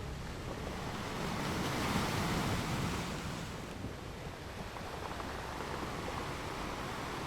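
Ocean surf: waves washing in as a steady rushing noise that swells about two seconds in and eases off again.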